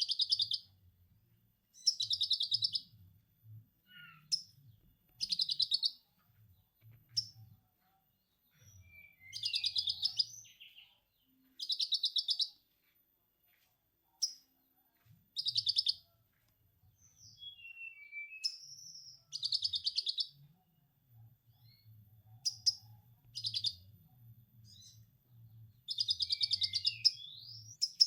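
Lovebird giving its ngekek chatter: bursts of rapid, buzzy chattering calls repeated every couple of seconds, with a longer run near the end.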